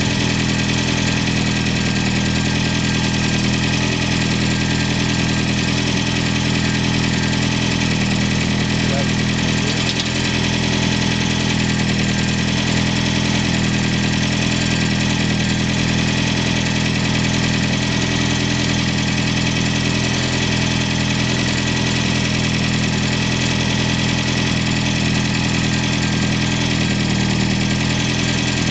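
Freshly rebuilt Ford 2.3-litre turbocharged four-cylinder engine idling steadily on its first run. A squeaking, rattling sound from the automatic transmission is one the owner puts down to the torque converter.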